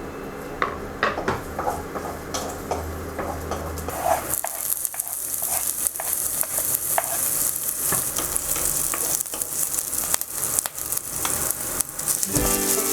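Cookware clinks and clicks, then from about four seconds in, food sizzling steadily as it fries in a hot pan, with occasional stirring knocks.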